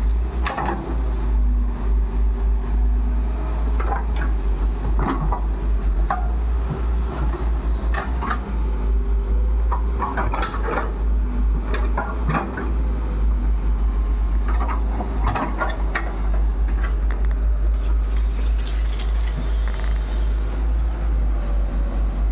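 Diesel engine of a JCB 3DX backhoe loader running with a steady low rumble, with irregular short metallic clanks and knocks over it.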